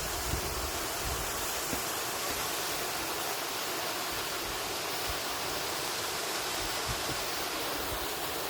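Steady rushing of a stream of water cascading down over rocks.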